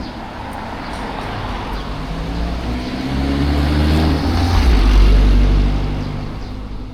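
A motor vehicle passing close by. Its engine hum and road noise swell to a peak about five seconds in, the engine note dropping in pitch as it goes by, then fade.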